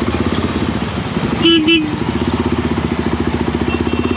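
Motorcycle engine running at a steady pace with an even exhaust pulse. About one and a half seconds in, a vehicle horn beeps twice in quick succession.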